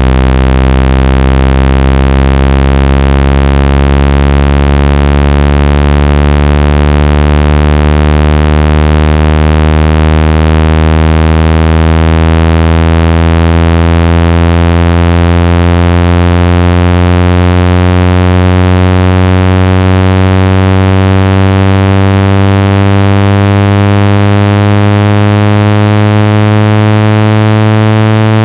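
Loud synthesized low buzzing tone, rich in overtones, rising slowly and steadily in pitch: a speaker-cleaning tone played to shake water and dust out of a phone's speaker.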